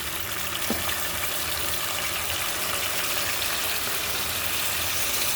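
Hot water poured into a pan of fried onions and hot oil, sizzling and hissing steadily as it boils up.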